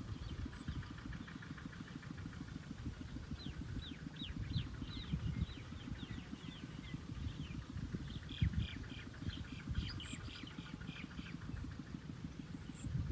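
Birds calling in quick, short chirps that sweep downward, in clusters around the middle and later part, over a steady low pulsing rumble and a fast, even buzzing pulse.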